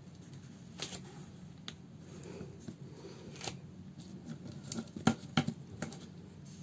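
Small sharp clicks and light handling noises from hand-sewing a fabric slipper with needle, thread and scissors: a few scattered snips or taps, the loudest pair close together about five seconds in.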